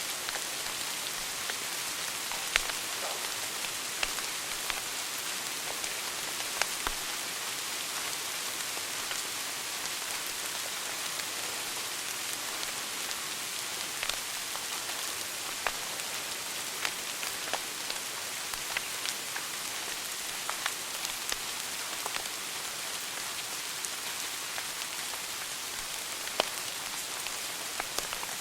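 Wood fire burning in a fireplace: a steady hiss with irregular sharp crackles and pops, a few of them louder snaps.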